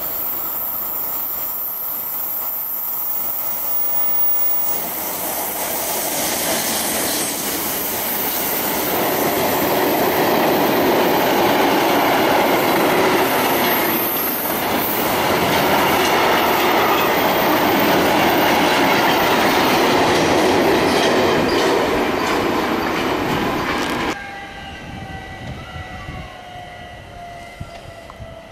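Long freight train of loaded log wagons, hauled by an electric locomotive, passing close at speed, its wheels clicking over rail joints in a loud, steady rolling noise that builds over the first several seconds. About 24 seconds in it cuts off suddenly to a quieter passing electric train with a faint falling whine.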